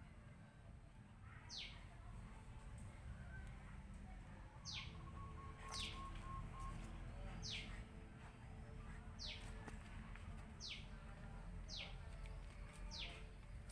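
A bird repeating a short, high call note that drops sharply in pitch, about eight times at uneven gaps of one to three seconds, faint over a low steady hum.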